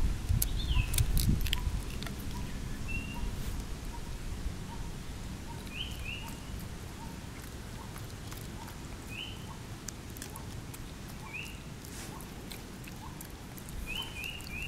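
Outdoor ambience of birds: short, sharp high chirps, some in pairs, every few seconds, over a faint low note repeated about twice a second. A low rumble on the microphone and a few clicks are heard in the first second or two.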